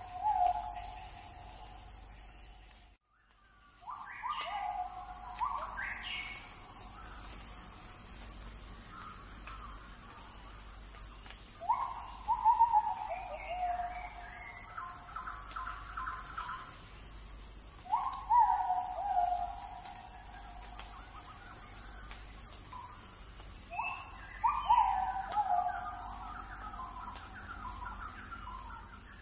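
A bird calling about every six seconds, each call a short run of notes falling in pitch, over a steady high-pitched insect drone.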